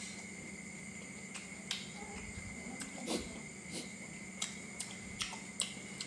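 Close-miked chewing of crispy fried meatballs, with scattered sharp mouth clicks and smacks, about eight of them, over a steady background hum.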